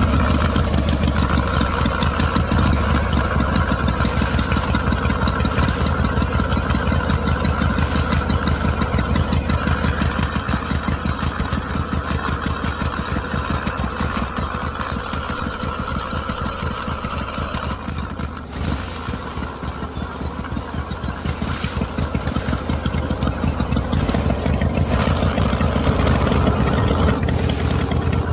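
Small engine or motor running steadily with a fast, even chugging pulse, and a higher whine that comes and goes, dropping away briefly about two-thirds of the way through.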